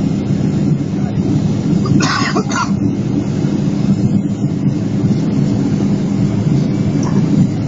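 Cabin rumble of a Boeing 777 rolling on the ground after touchdown, steady engine and wheel noise. A short burst of noise comes about two seconds in.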